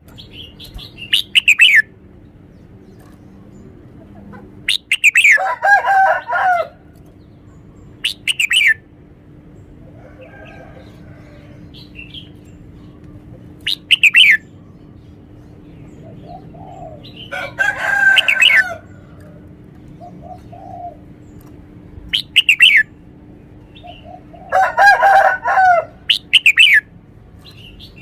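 Red-whiskered bulbul singing its song phrases about seven times with pauses between: short, quick down-sweeping whistles and a few longer warbled phrases. A faint steady hum runs underneath.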